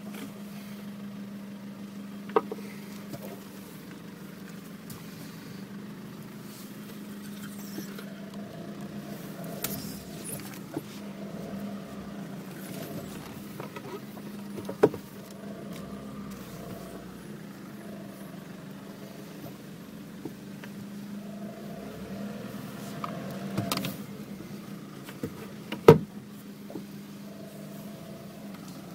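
Nissan Navara ute's engine running at a steady low idle as the vehicle creeps forward, heard from inside the cab. A few sharp knocks break through, the loudest near the end.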